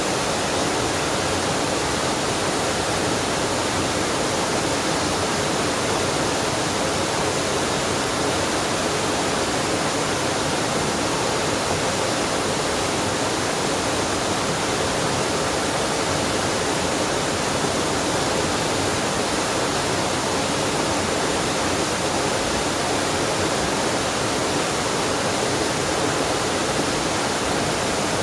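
Waterfall on a mountain stream: a steady, even rush of falling water with no breaks or changes.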